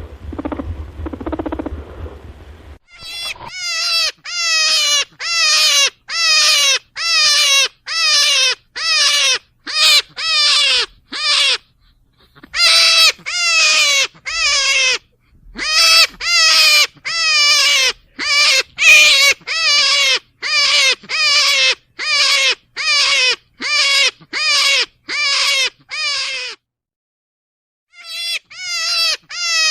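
A small animal squealing over and over, about two calls a second, each call sliding down in pitch. The calls follow a softer, lower sound in the first few seconds, pause briefly about twelve seconds in, and break off for a moment near the end.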